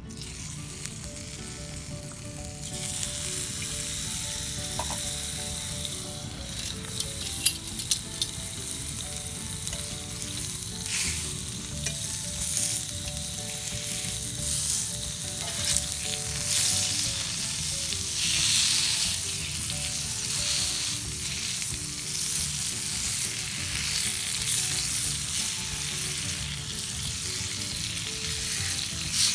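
Wood ear mushrooms frying in a small camping frying pan, with a steady sizzle that grows louder about two and a half seconds in. A couple of sharp clicks come near the quarter mark.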